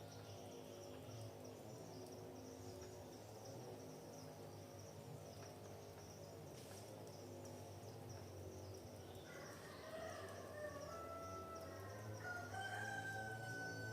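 Forest ambience: a steady high insect drone, faint throughout. In the last few seconds a bird gives a few short calls, then one long held call.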